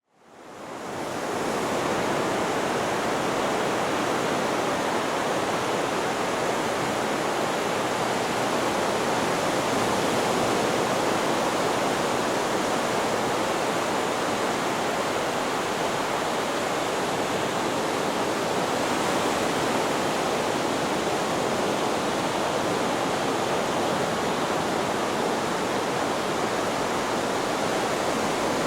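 Steady white noise, an even hiss-like rush without the rise and fall of breaking waves, fading in over the first second or so.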